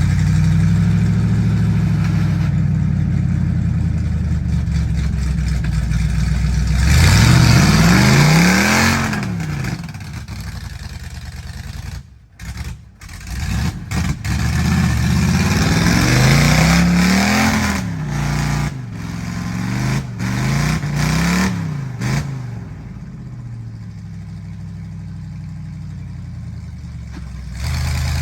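Ford mud truck engine revving hard in repeated surges, its pitch rising and falling back several times, with a few abrupt breaks in the sound partway through.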